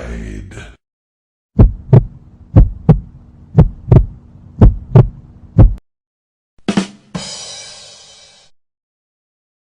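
Heartbeat sound effect: deep double thumps, lub-dub, about once a second for about four seconds over a steady low hum. Near the end a short sharp hit is followed by a hiss that fades out.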